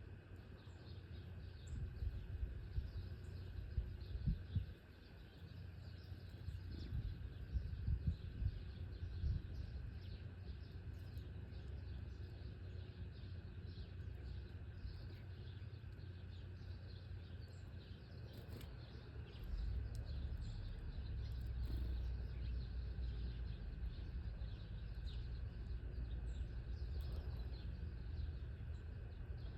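Many small birds giving short, quick chirps over and over, with a low outdoor rumble underneath that grows louder about two-thirds of the way through.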